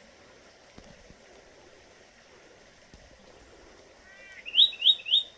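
A bird calls near the end: a brief warble and then three quick, loud, rising whistled notes. Under it runs a faint steady rush of flowing water.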